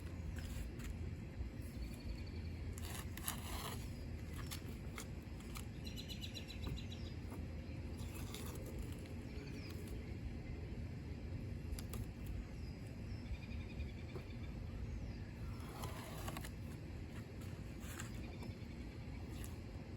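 A few short hisses from an aerosol spray-paint can, each under a second long, over birds chirping and a steady low outdoor rumble.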